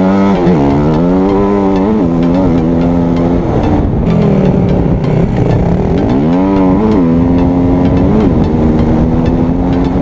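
Dirt bike engine being ridden hard, its pitch climbing under throttle and dropping back again and again as it shifts gears, with a sharp rev-up about six seconds in.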